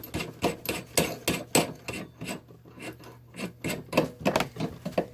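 Metal parts being turned and handled by hand: irregular rasping scrapes and clicks, a few a second, thinning out in the middle, over a steady low hum.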